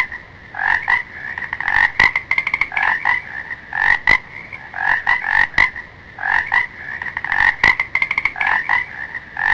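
Frog croaking: a steady run of short repeated calls, each a quick rattle of clicks.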